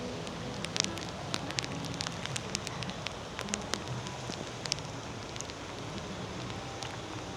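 Steady rain falling, with many sharp ticks of individual drops striking close by.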